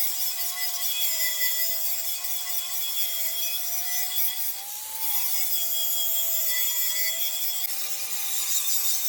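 A high-speed power tool working on a metal wheel rim: a steady motor whine over a rasping abrasive hiss. Its pitch rises just before the middle, falls back, then steps up again near the end as the load on the tool changes.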